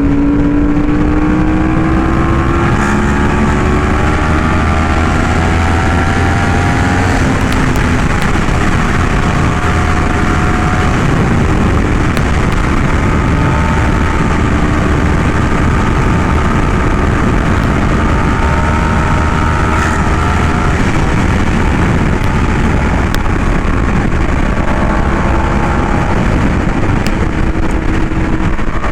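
Yamaha R1M's crossplane inline-four running loud through an SC Project aftermarket exhaust while riding, its pitch climbing over the first several seconds and then holding fairly steady, over heavy wind rush.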